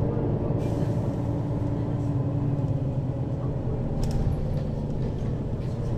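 Mercedes-Benz Citaro city bus under way, heard from inside the cabin above the rear axle: steady engine and drivetrain drone with a whining tone that steps down in pitch about halfway through, as the ZF Ecomat automatic gearbox changes gear.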